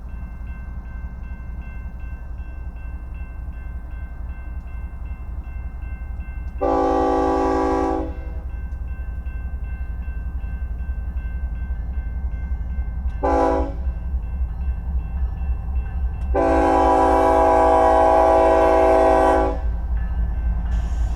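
BNSF freight locomotive's multi-chime air horn sounding for a grade crossing: a long blast, a short one, then a longer blast, over the steady low rumble of the train. Behind it a crossing-signal bell rings steadily, about twice a second.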